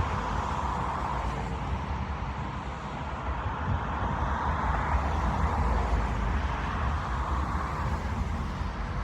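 Steady outdoor background noise: a hum of road traffic that slowly swells and fades, with a low rumble underneath.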